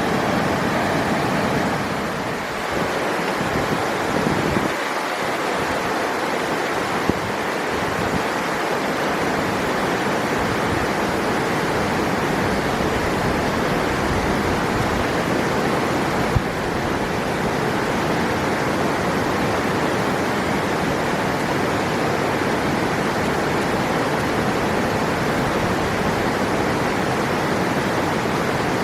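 River water rushing steadily, with a couple of brief faint clicks.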